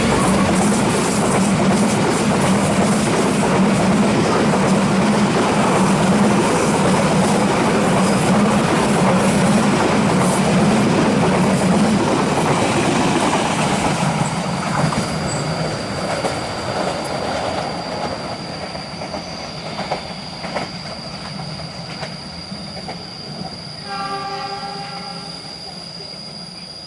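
A train passing close by, its wheels rumbling and clattering on the rails, then fading steadily over the second half as it moves away. A brief horn note sounds near the end.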